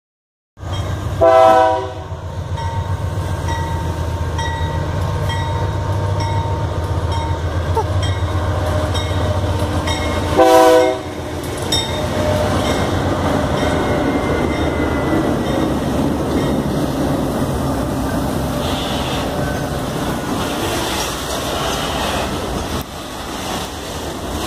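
Diesel locomotive running past with a steady low engine hum, sounding two short horn blasts, one about a second in and another about ten seconds in. After the second blast the wagons roll by with a steady rattle of wheels on the rails.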